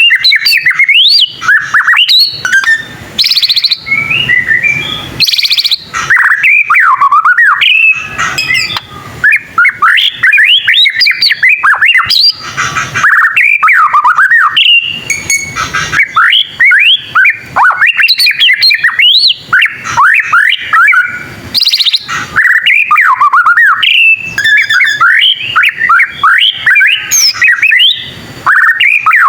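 White-rumped shama singing loudly and without pause: a rapid run of varied whistled notes sweeping up and down, mixed with a few harsh, rasping notes.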